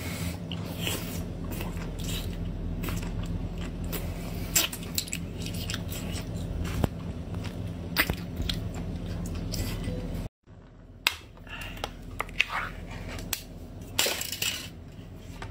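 A person biting and chewing rubbery whole-octopus tentacles at close range, with many short sharp mouth clicks over a steady low hum. The sound cuts out briefly about ten seconds in, then fainter clicks follow.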